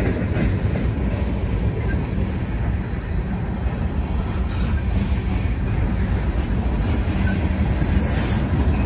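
Norfolk Southern freight train's cars rolling past, a steady rumble of wheels on rail.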